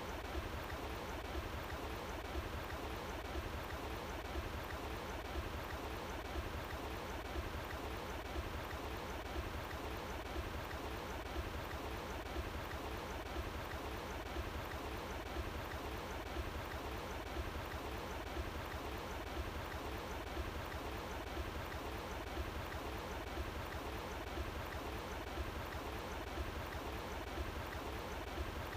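Running water flowing steadily outdoors, an even rushing with a low rumble underneath.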